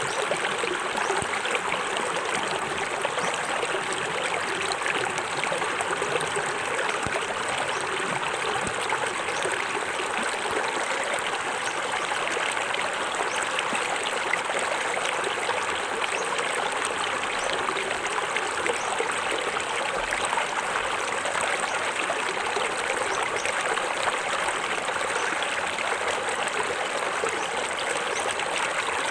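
Small forest waterfall, water splashing and running steadily over rocks.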